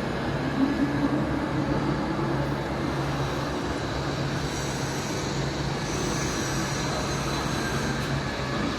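Steady machinery noise with a low, even hum, typical of a metalworking workshop, with no distinct strikes or changes.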